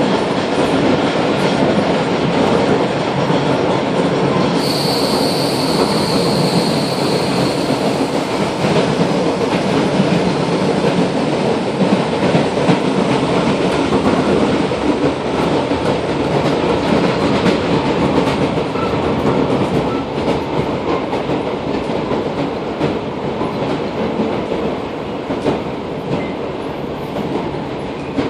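Interior noise of a Belgrade suburban electric train running along the track: a steady rumble of wheels and carriage, with a thin high whine for a few seconds about five seconds in.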